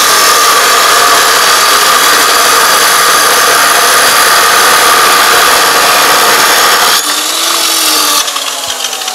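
Electric metal-cutting saw cutting through a piece of steel bar, a loud steady grinding whine. About seven seconds in the cut ends and the blade spins down with a falling pitch.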